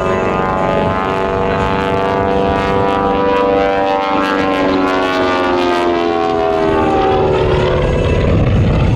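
P-51 Mustang's Merlin V-12 piston engine running loud in a flyby, its pitch sliding lower as the plane passes.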